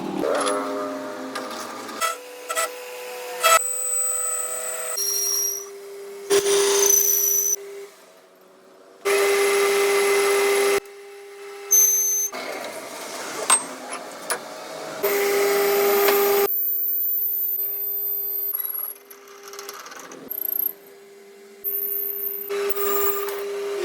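Workshop machine tools working on a metal gear in a string of short, abruptly cut clips: a machine running with a steady whine, with scraping and grinding noise, in bursts that start and stop suddenly.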